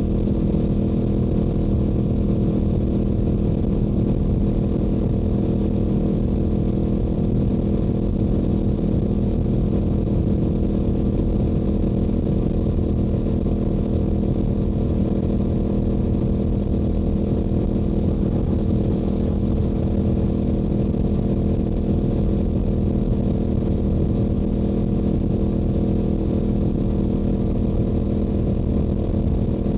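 Stock Yamaha YZF-R7's 689 cc parallel-twin engine and exhaust running at steady highway cruising speed, holding a constant pitch without revving up or down.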